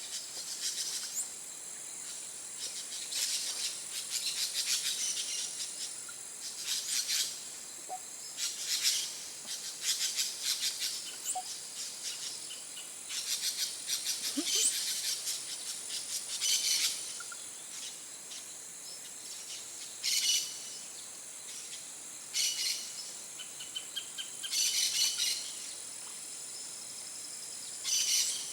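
Rainforest chorus: a steady high-pitched insect drone, broken by about a dozen short bursts of bird and insect calls.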